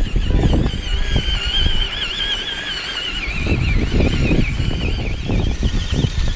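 Small electric motor and gearbox of a WPL B36 1/16-scale RC truck whining, the pitch wavering and dipping as the throttle changes, over irregular low rumbling.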